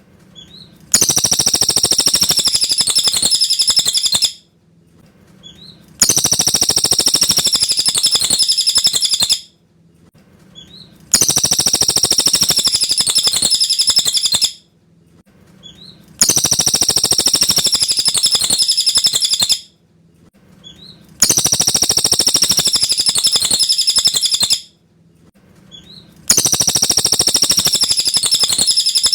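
Cililin bird singing clear, high song phrases. Each phrase lasts about three seconds and comes back about every five seconds after a short pause, with faint single chirps in the gaps.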